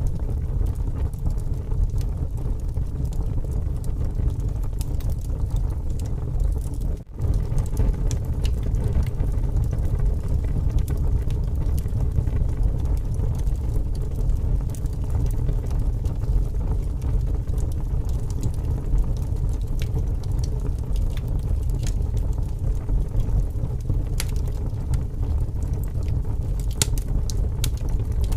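Wood fire burning with scattered crackles and pops over a steady low rumble of strong wind. The sound dips out briefly about seven seconds in.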